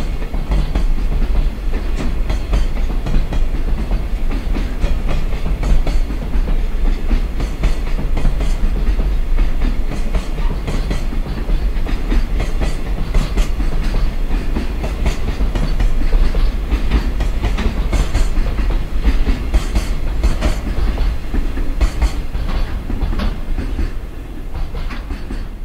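Container flatcars of a freight train rolling past, with a low rumble and a steady clickety-clack of wheels over the rail joints. The sound fades near the end as the last wagon goes by.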